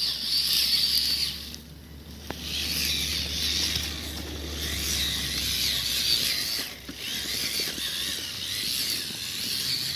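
Small electric motors and gearboxes of radio-controlled scale trail trucks whining as they crawl, the pitch wavering with the throttle and dropping out briefly twice.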